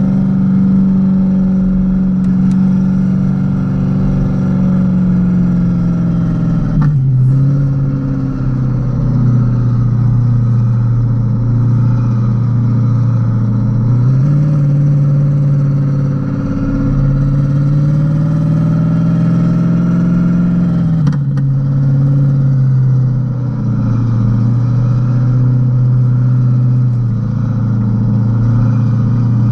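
Modified Renault Kwid's 0.8-litre three-cylinder engine pulling under way. Its note drops sharply about 7 seconds in and again about 21 seconds in, each time with a short click, as at a gear change. In between it climbs slowly with road speed.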